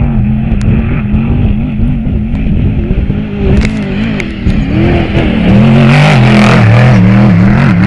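Trophy truck engine revving up and down under load, its pitch wavering. It grows much louder about five and a half seconds in and stays loud, with a rushing noise over it.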